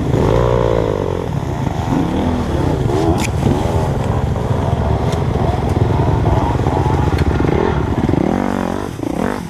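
Dirt bike engine running and revving up and down with the throttle, its pitch rising and falling repeatedly.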